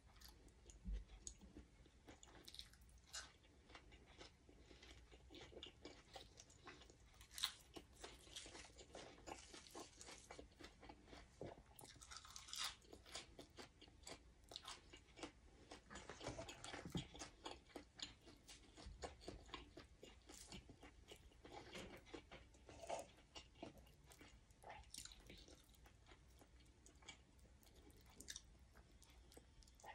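Close-miked chewing: a person eating mouthfuls of eggplant salad, sticky rice and fresh herbs, with irregular soft crunches and wet mouth clicks.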